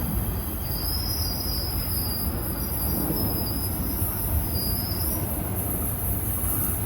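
Train running past with a steady low rumble, and a high, wavering squeal from about one second in to about five seconds in.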